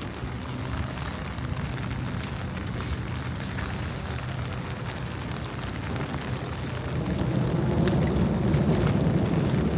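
Steady heavy rain falling, with a low rumble that swells and grows louder about seven seconds in.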